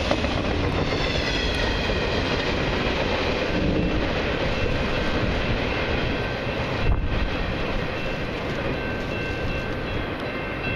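Freight cars of a long train rolling past and away on steel wheels, a steady rumble and rail clatter with a thin high wheel squeal. There is a single knock about seven seconds in, and the sound eases slightly near the end as the last cars recede.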